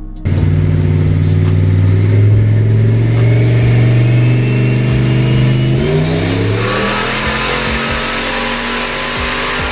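Turbocharged LS V8 of a 1000 whp Chevy C10 pickup accelerating, its pitch climbing steadily for about six seconds, with a rising turbo whistle about six seconds in, after which a rushing noise joins the engine.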